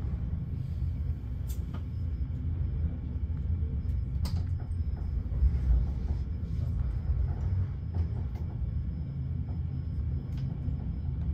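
Passenger train running along the track: a steady low rumble with a few sharp clicks or knocks on top.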